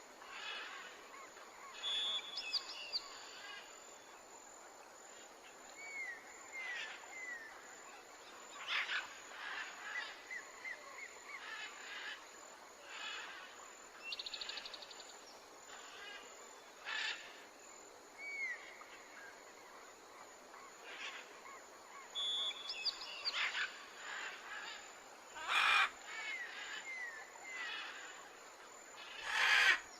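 Birdsong from a nature-sound track: scattered chirps and short gliding calls over a faint outdoor hiss. The same calls come back about twenty seconds later, and there are a few brief louder sounds near the end.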